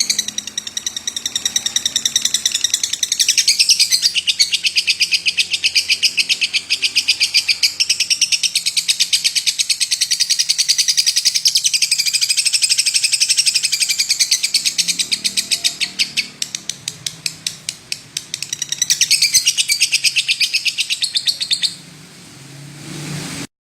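Lovebird singing a long, unbroken trill of rapid chattering chirps. The trill stops about 22 seconds in, then the sound cuts off abruptly just before the end.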